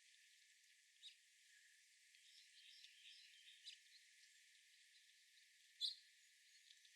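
Faint outdoor ambience with small birds chirping: scattered short high chirps, a cluster of them between about two and four seconds in, and one sharper, louder chirp near the end. The sound is thin, with all its low end cut away.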